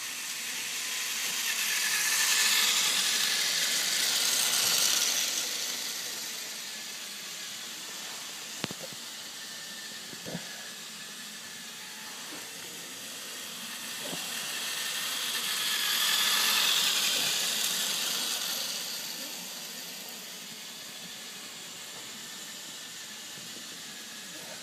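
Toy train running with a hissing steam sound that swells up and dies back twice, with a couple of light clicks between the swells.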